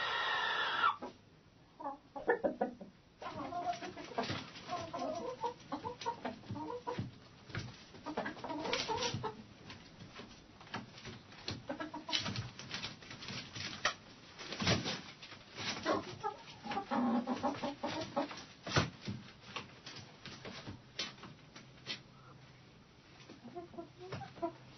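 Hens in a chicken coop clucking and calling, many birds in short, overlapping calls with scratching and pecking clicks between them.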